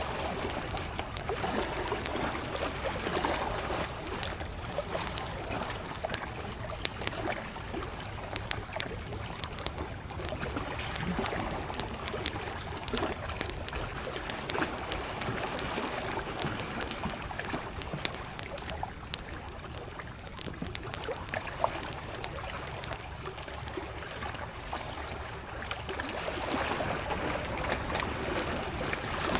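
Wood campfire crackling and popping, with frequent sharp snaps throughout, over small lake waves lapping gently at the shore.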